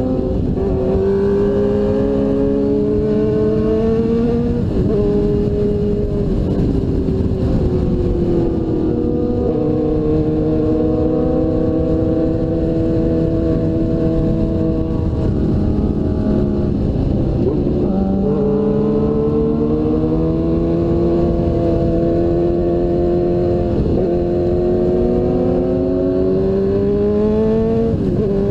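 2002 Suzuki GSX-R1000's inline-four engine on a fast ride, its pitch climbing under acceleration and dropping sharply about five times as the rider shifts or rolls off for corners, over a steady rush of wind.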